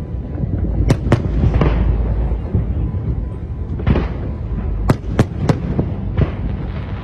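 Aerial fireworks bursting: sharp bangs about a second in, then a quicker run of bangs from about four to six seconds in, each trailing off in a crackling smear, over a steady low rumble.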